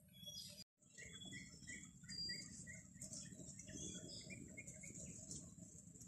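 Quiet forest ambience: a bird calling in runs of short repeated chirps, about three a second, over a steady high hiss and low rumble. The sound cuts out completely for a moment just under a second in.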